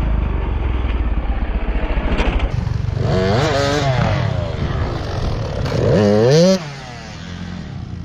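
Dirt bike engine running and revving, its pitch rising and falling a few seconds in and climbing again near the end before it stops suddenly.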